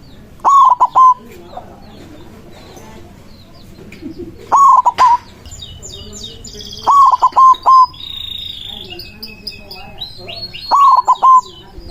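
White zebra dove (perkutut) cooing, four phrases of three or four quick, clipped notes each, a few seconds apart. Other small birds chirp throughout.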